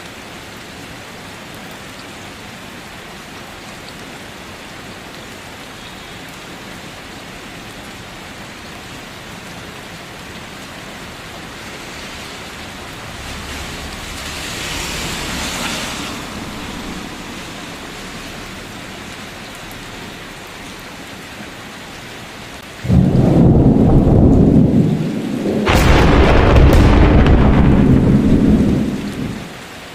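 Steady rain falling, with a low roll of distant thunder swelling and fading about halfway through. Near the end, two loud thunderclaps break in suddenly one after the other, the second opening with a sharp crack, then stop abruptly and the rain goes on.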